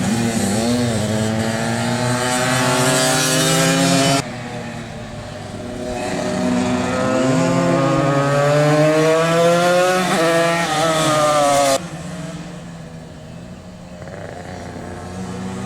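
Tuned two-stroke motorcycle engines at full throttle, their pitch climbing steadily as they accelerate. The sound cuts off abruptly about four seconds in, returns and climbs again, then cuts off abruptly near the end, leaving quieter engine noise.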